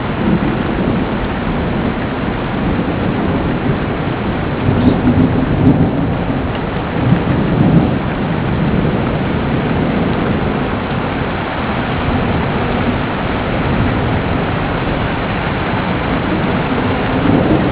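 Steady heavy rain with low rolling thunder, the rumble swelling louder a few seconds in and again near the end.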